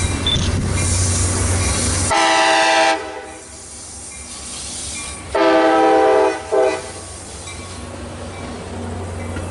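Metra MP36PH-3C diesel locomotive running with a steady low rumble and rail noise, then sounding its multi-tone horn: a blast about two seconds in, a longer blast a few seconds later, and a short toot right after.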